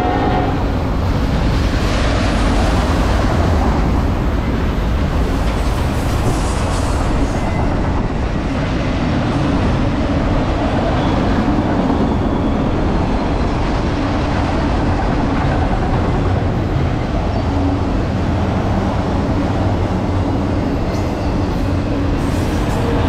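Long freight train of autorack cars rolling past close by: a loud, steady noise of wheels on rail. A train horn cuts off about half a second in.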